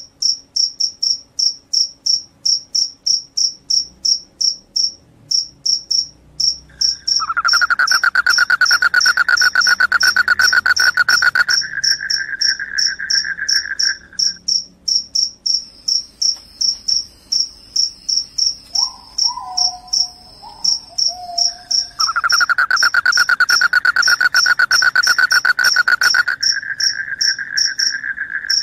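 Crickets chirping: a steady, high, pulsed chirp about three times a second, with a louder, lower, continuous trill joining twice for several seconds at a time. A brief falling call sounds near the middle.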